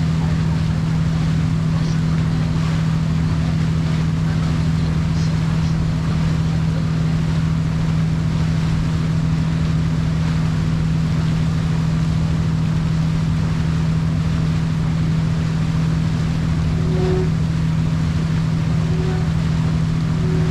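Sightseeing boat's engine running with a steady low hum, under a constant rush of wind and water; three short tones sound near the end.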